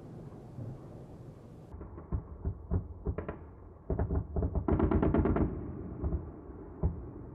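A string of sharp bangs and booms during a drone attack on a city, with a rapid volley of blasts in the middle. A low rumble comes before the bangs, and the sound changes abruptly just before they begin.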